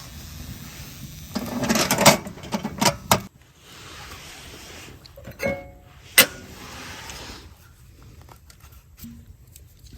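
Metal camp gear being handled. There is a burst of clattering knocks, then a short metallic clink with a brief ring and a single sharp click.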